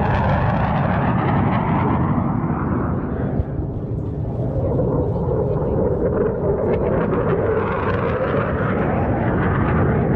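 Military jet aircraft flying past at an air show, its engine noise loud and steady throughout. The pitch drops lower through the middle and rises again near the end.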